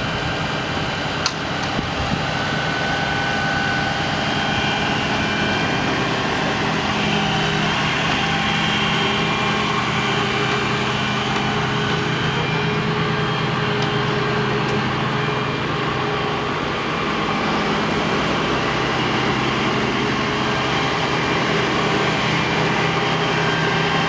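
Cummins 6.7-litre diesel of a RAM 5500 bucket truck running steadily at idle while the boom is lowered to its rest.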